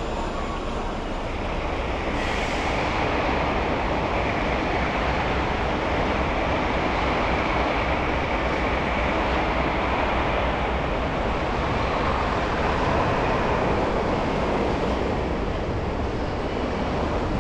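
Steady road and traffic noise from a car driving through snowy city streets, a continuous rumble of tyres and engines with no distinct events.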